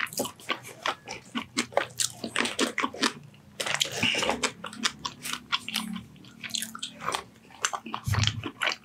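A man chewing a mouthful of fries topped with cheese sauce and minced meat, close to the microphone: a quick run of sharp clicking mouth and chewing sounds, with a brief low hum near the end.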